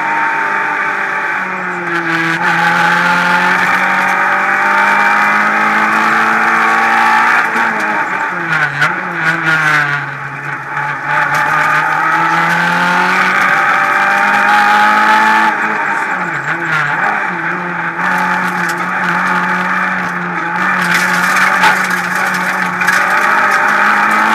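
Renault Clio Ragnotti rally car's four-cylinder engine driven hard on a special stage, heard from inside the cabin. The revs climb and drop repeatedly through gear changes, with deeper drops and recoveries about eight to ten seconds in and again around sixteen seconds as the car slows for bends.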